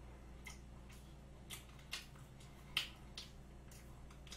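Close-up mouth sounds of chewing soft chocolate cake: faint wet smacking clicks at irregular intervals, the loudest a little under three seconds in, over a faint steady low hum.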